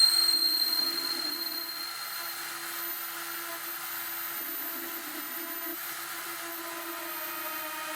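Small CNC milling machine running: a steady mechanical whine over a hiss that is louder at first and settles after about two seconds.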